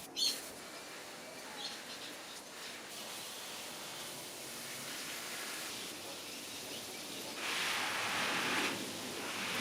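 Outdoor ambience: a steady hiss with a few brief bird chirps, then a louder spray-like hiss for a little over a second near the end.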